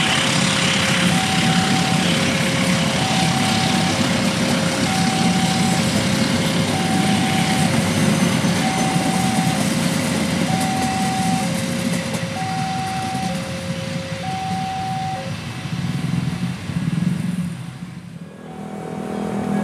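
Train coaches rolling past on the rails with a steady rumble of wheels. Over it a level-crossing warning alarm sounds two alternating tones, high and low, switching about every half second. The alarm stops a few seconds before the end, and the rolling sound then fades away.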